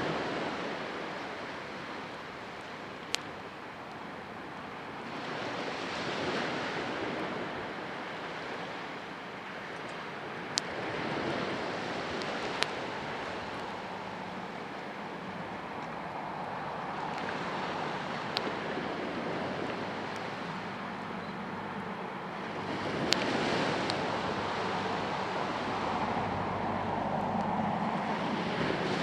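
Sea waves washing onto the shore, the surf swelling and falling back about every five to six seconds, with a few sharp pops scattered through.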